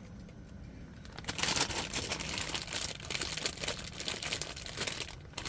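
Close crinkling and tearing as shimeji mushrooms are handled and pulled apart for the hot pot, starting about a second in as a dense run of small crackles, with a brief break near the end.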